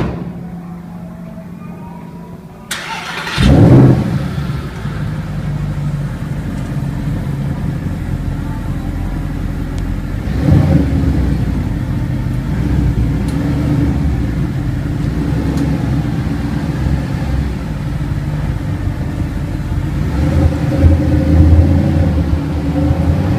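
A sports car's engine starts with a sharp rev about three seconds in, then keeps running with a deep rumble. It blips again about ten seconds in and grows louder near the end.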